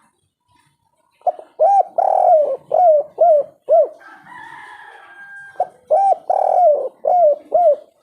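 Spotted dove cooing in its 'kuk 3' song style: two runs of loud, rounded coo notes, a few per second, separated by a short pause. A fainter, steadier sound fills the pause.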